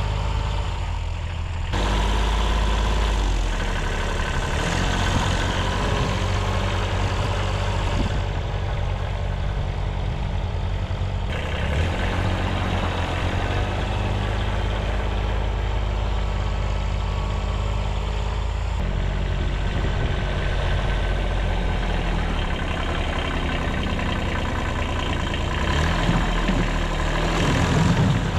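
The 14 HP diesel engine of a 1978 Kubota B6100 tractor running steadily, its sound changing abruptly a few times.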